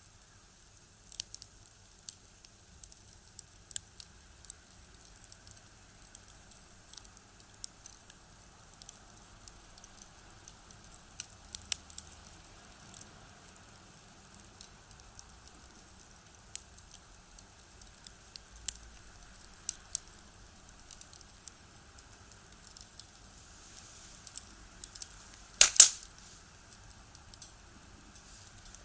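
Firewood crackling in a box stove: irregular sharp pops and snaps over a faint steady background, with one louder crack near the end.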